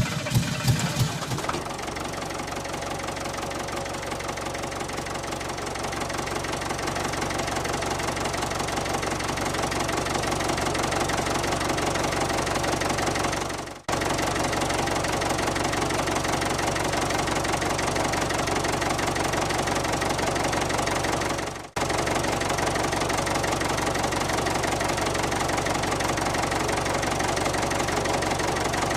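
Small engine of a homemade mini tractor running steadily with a fast, even chugging. It cuts out briefly twice, about 14 and 22 seconds in.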